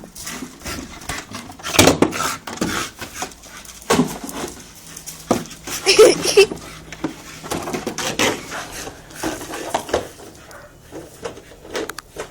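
A dog at play: irregular knocks and scuffling, with a short vocal sound about six seconds in.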